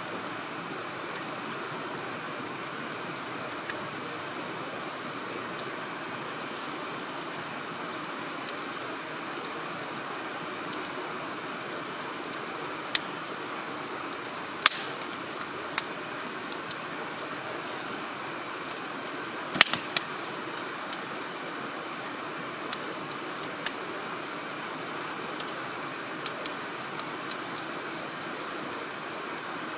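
Firewood burning in a wood grill: a steady hiss with scattered sharp crackles and pops, a few louder pops in the middle.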